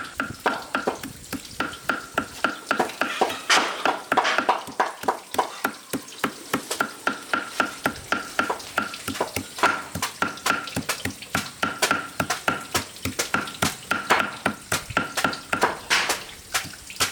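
A kitchen utensil striking over and over in a fast, even rhythm, about five knocks a second, each knock with a short metallic ring.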